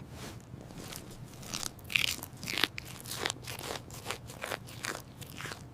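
Crunchy chewing and biting: a string of irregular crunches.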